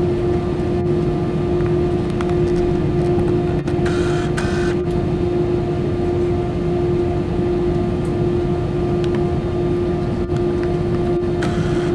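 Steady cabin noise inside an Airbus A320-200: a continuous drone of its engines and air conditioning with one steady hum tone. Two brief higher hissing sounds come about four seconds in and another near the end.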